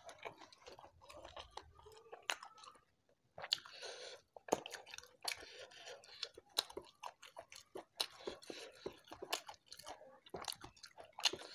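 A person chewing spicy shrimp balado with his mouth close to the microphone, with many sharp wet mouth clicks and a short pause about three seconds in.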